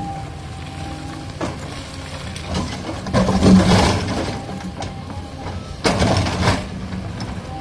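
Caterpillar 320D excavator's diesel engine running under work with a thin steady hydraulic whine. Two louder bursts of noise come about three and six seconds in.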